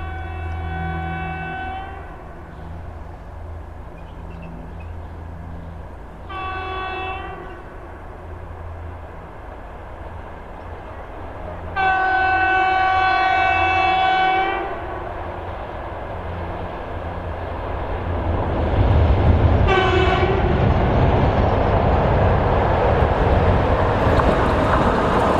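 Electric locomotive's multi-tone warning horn sounding repeatedly as a train approaches. There is a blast that ends about two seconds in, a short one around six seconds, a long, loud one around twelve seconds and a brief one around twenty seconds. Under the horn, the train's rumble builds to a loud, steady roar in the last third.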